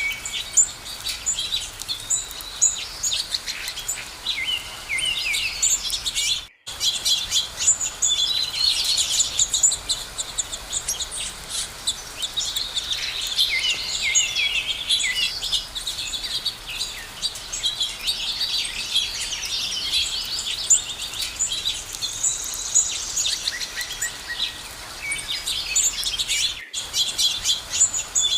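Many songbirds singing and chirping at once in a dense chorus of quick, high chirps and trills. There are brief dropouts to silence twice.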